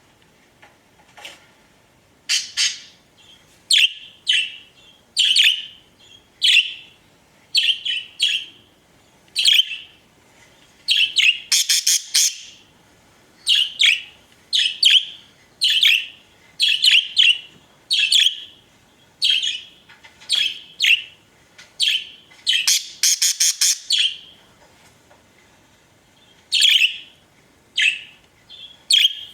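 Pet budgerigars chirping: short sharp chirps about once a second, with two bursts of rapid chattering notes, one midway and one near the end.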